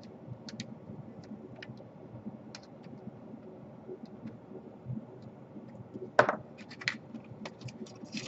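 Scattered small clicks and taps from hands handling laptop parts and cables, with a louder cluster of clicks about six seconds in.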